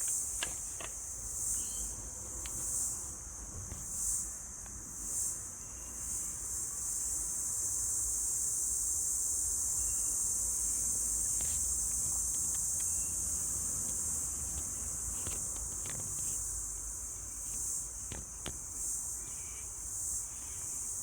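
Steady high-pitched chorus of crickets chirping, with a few faint clicks here and there.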